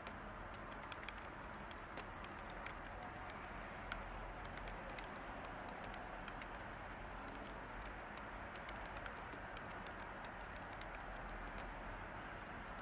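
Light computer-keyboard typing, scattered soft key clicks, over a steady white-noise hiss.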